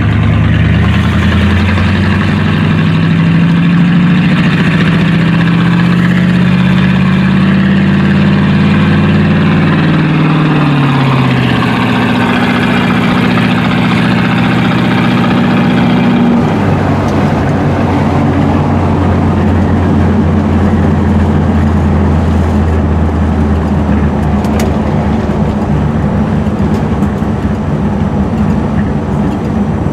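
Car engine running under way. Its note climbs, falls back about ten seconds in, holds, then drops abruptly to a lower steady note about sixteen seconds in.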